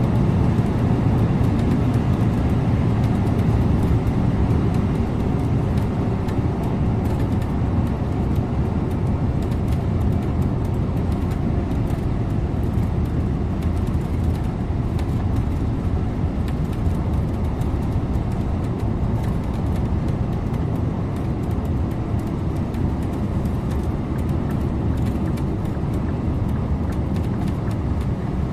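Scania InterLink bus under way, heard from the driver's seat: a steady engine hum with tyre and road noise.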